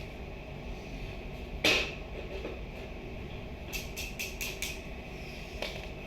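A single sharp knock, then about five light clicks in quick succession, as pieces are handled and fitted during construction work.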